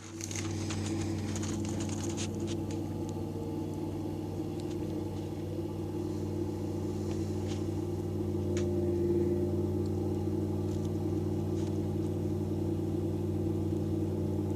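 Ford 302 small-block V8 in a garden tractor running at a steady speed.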